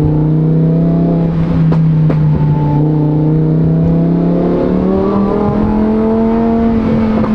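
Supercharged Lamborghini Huracan EVO V10 running through a titanium race exhaust, holding a steady note and then rising slowly in pitch as it pulls from about halfway. A couple of sharp exhaust crackles come about two seconds in.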